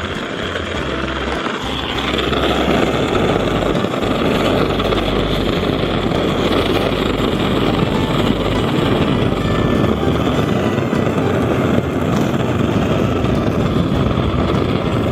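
Strong wind buffeting the microphone: a steady loud rush with irregular low rumbling gusts, growing louder about two seconds in.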